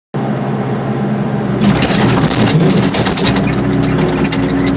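Excavator's diesel engine running steadily, with a fast clatter of sharp clicks starting a little under two seconds in.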